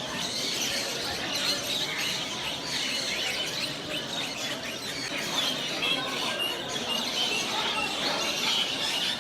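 Many small birds chirping at once: a dense chatter of short high calls, over a steady background hubbub.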